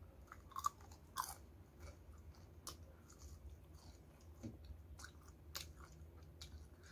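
Close-up chewing of crispy battered fried chicken, faint, with scattered short crunches; the sharpest crunches come about half a second and a second in.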